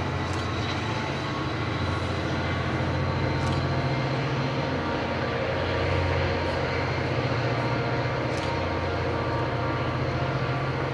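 Diesel locomotive engine running steadily: an even, low drone with a few faint clicks.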